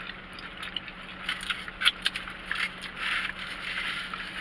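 Close-up eating sounds: a burger being chewed, with wet clicks and smacks. Some rustling joins in about three seconds in.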